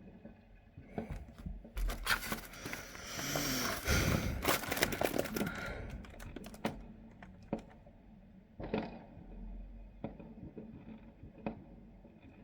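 Scattered sharp crackles and pops, with a denser, louder burst of crackling from about two to six seconds in and a shorter one near the nine-second mark.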